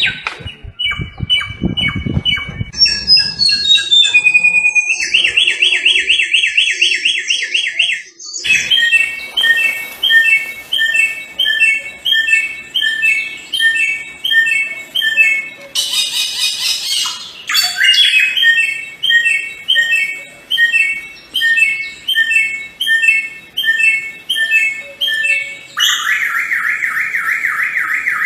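Samyong bird singing loudly in a long string of varied phrases. It opens with mixed whistles and rapid trills, then repeats short clear notes two or three times a second, and breaks into a fast buzzy trill near the end.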